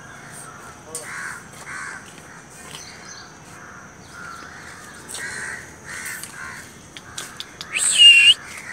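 Birds calling outdoors: a run of short calls repeating every half second or so, with a louder, higher-pitched call near the end.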